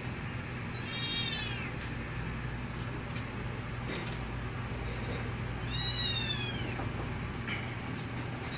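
Young kitten mewing twice, high-pitched cries that fall in pitch, the second longer, near six seconds in. A steady low hum runs beneath.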